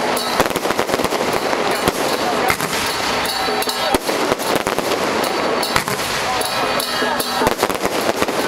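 Firecrackers and fireworks going off from a fireworks cart in a dense, unbroken crackle of many sharp bangs a second.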